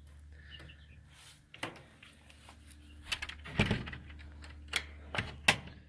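A scattering of sharp knocks and clatters, with one heavier thump about three and a half seconds in.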